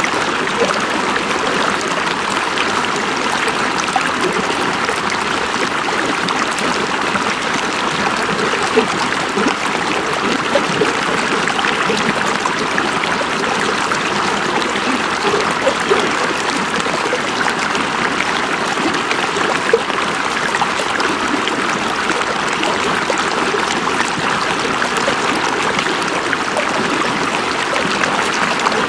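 River water rushing and babbling steadily over rocks, a continuous hiss with small splashes and gurgles here and there.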